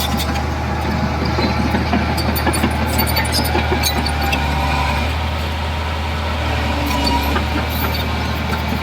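Heavy diesel earthmoving machinery running steadily with a low engine drone, with scattered light metallic clanks, thickest in the first few seconds.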